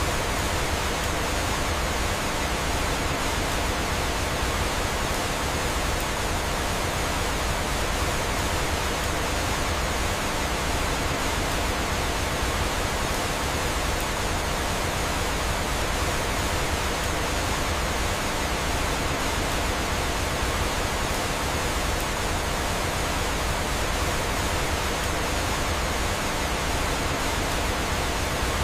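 Steady rushing of a waterfall, an even hiss of falling water with no breaks or changes.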